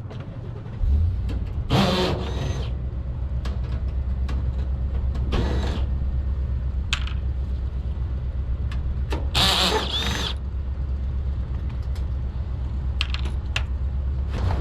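A motor starts about a second in and runs with a steady low hum. Over it come three loud metallic clatters with a ringing tone, sheet-metal panels being handled.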